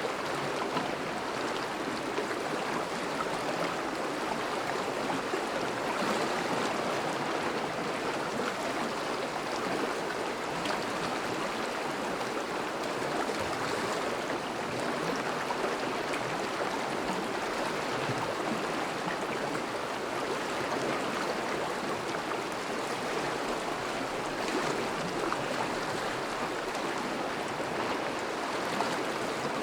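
Thawing river flowing steadily: a constant rush of moving water over and around the ice.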